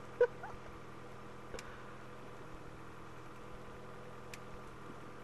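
A vehicle engine idling with a steady low hum. There is a short louder blip just after the start and a couple of faint clicks.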